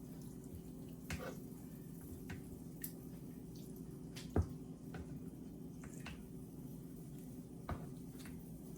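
Raw chicken being handled by hand as its skin and fat are pulled off: scattered soft wet clicks and squelches, one sharper about halfway through, over a steady low hum.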